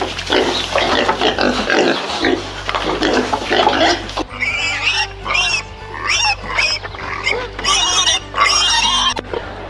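Domestic pigs grunting in quick, noisy bursts, then squealing high-pitched from about four seconds in.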